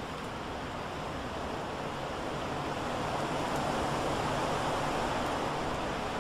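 Steady rushing wind, swelling a little in the middle.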